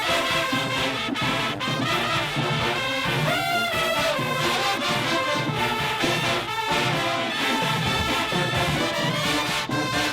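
High school marching band playing: brass horns carry the tune over a steady drumbeat.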